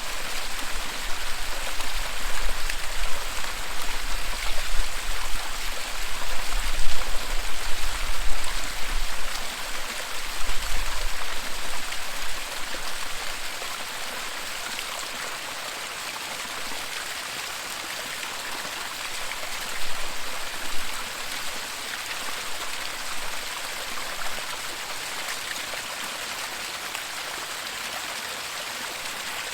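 Waterfall: a steady, even rush of falling water. A low rumble comes and goes under it during the first dozen seconds, and once more briefly about two-thirds of the way through.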